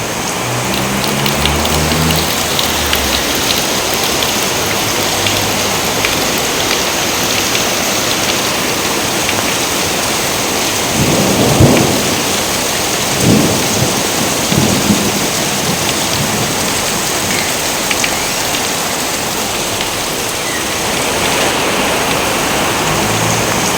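Steady heavy rain falling, a dense hiss with fine drop ticks. About halfway through, thunder rumbles three times in quick succession, the first the loudest.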